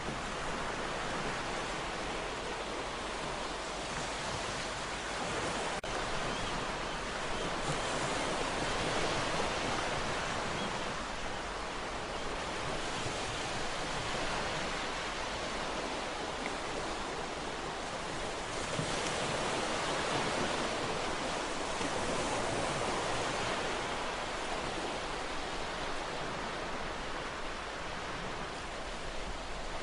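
Ocean waves washing onto a shore, a continuous hiss of surf that swells and eases slowly every several seconds.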